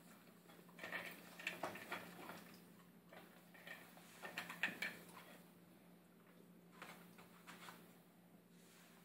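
Puppy eating from his food bowl: faint clicking and crunching of food and bowl in short bursts, with pauses between.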